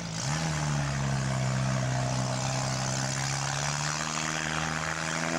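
Demolition-derby mini car engines running hard, a steady droning tone that rises slightly near the start, with a second engine tone joining about four seconds in.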